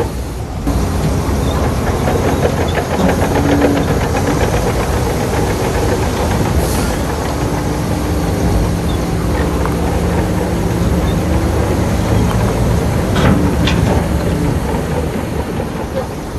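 Shantui crawler bulldozer's diesel engine running steadily, with the rattle and clank of its steel tracks and two sharp metallic clicks near the end.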